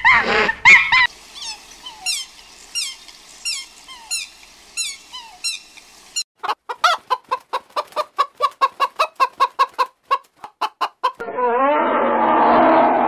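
Bird calls: a run of quick, high chirps that each fall in pitch, about two or three a second. These are followed by a fast series of short clucking calls, about four a second, typical of fowl. Near the end the calls stop and a rough, louder noisy sound takes over.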